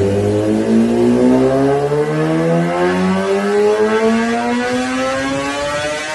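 Kawasaki Ninja ZX-10R inline-four engine accelerating, its pitch rising in one long, steady climb.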